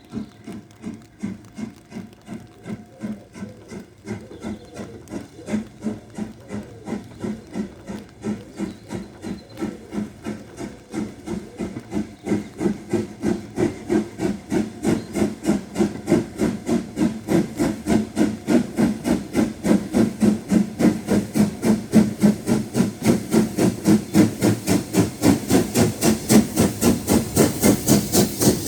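Steam locomotive working a train, its exhaust beats coming in a steady rhythm and growing steadily louder as it approaches, with more steam hiss near the end.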